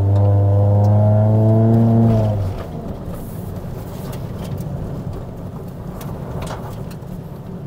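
Car engine revving hard under acceleration, heard from inside the cabin: its pitch climbs, holds for about two seconds, then drops away suddenly, leaving a steady rumble of road and tyre noise as the car carries on.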